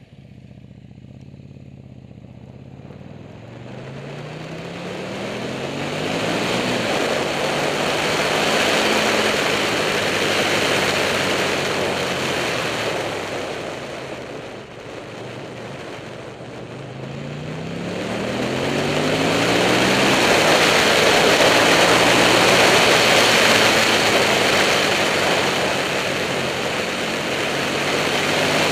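Buell 1125R's V-twin engine pulling up through the gears twice, its pitch rising in steps with each shift, under heavy wind noise on the camera mount that grows louder with speed.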